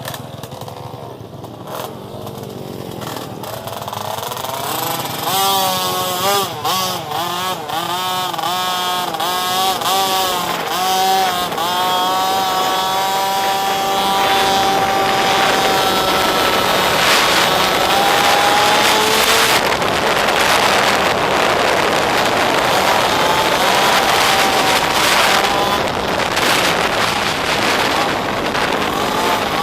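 Pit bike engine revving, growing louder over the first few seconds, its pitch rising and falling about once a second, then holding higher, steadier revs through the second half.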